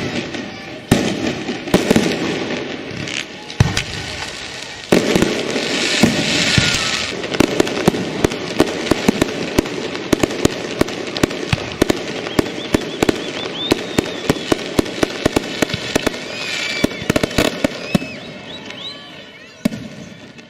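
Fireworks going off: separate bangs at first, then a dense barrage of sharp cracks and pops from about five seconds in.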